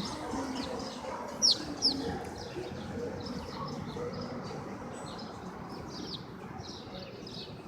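Small birds chirping in short, sharp, falling notes throughout, with two louder chirps about one and a half and two seconds in, over a low, steady background rumble.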